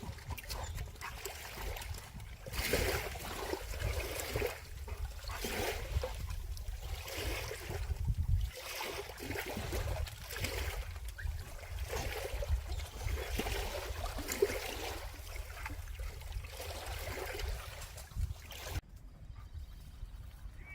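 Water sloshing and trickling in repeated swells every second or two, with a low wind rumble on the microphone for the first half. The sound drops away abruptly near the end.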